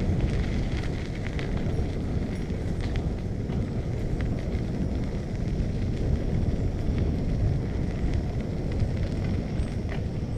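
Wind rushing over the microphone of a camera on a moving bicycle, a steady dense low rumble, with faint scattered ticks of the bike rattling over the path.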